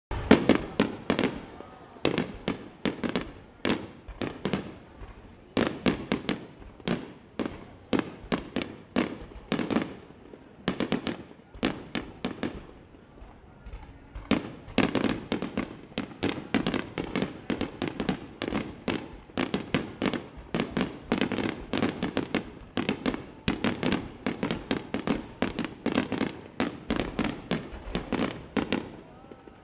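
Aerial firework shells bursting in quick succession, dozens of sharp bangs one after another. They thin out briefly around the middle, then come thick and fast again: a fireworks display's finale barrage.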